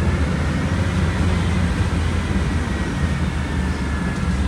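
Volkswagen Volksbus 17.230 Euro 6 bus's diesel engine running with a steady low drone.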